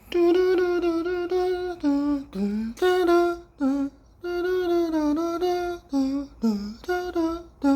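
A voice humming a short tune: a string of held notes with small pitch bends and glides, in short phrases.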